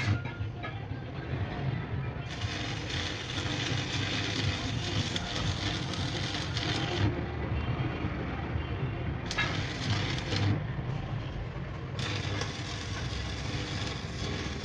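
Low, steady rumble of a running vehicle engine, with a hiss of noise over it that comes and goes abruptly.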